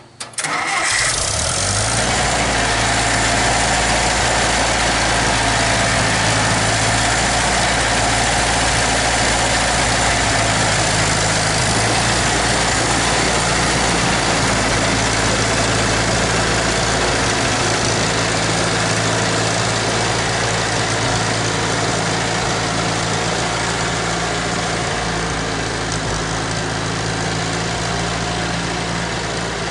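International 2444 tractor's spark-ignition engine catching and starting right away, then running steadily at idle. It is running after a carburetor cleaning and a new set of ignition points.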